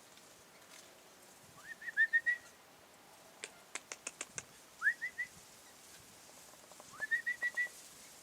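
A person whistling a call to birds: three short phrases, each a quick rising whistle followed by three or four short notes at the same pitch. Between the first two phrases comes a quick run of about six sharp clicks.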